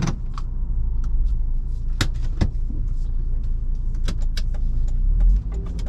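Inside a Volvo V70 2.5T driving in the rain: a steady low engine and road rumble, with scattered sharp ticks of raindrops hitting the car and a few louder ones about two seconds in.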